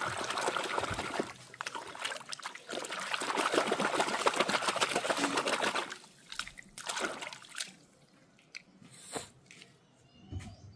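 Water trickling and splashing over toys being washed, in a continuous run that stops about six seconds in, followed by a few short splashes.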